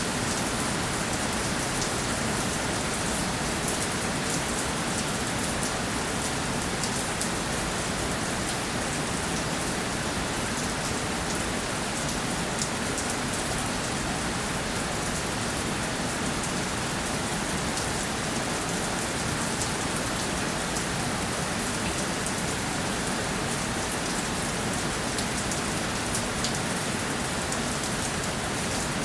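Steady rainfall with dense individual drops pattering on a surface, an even hiss with no lulls.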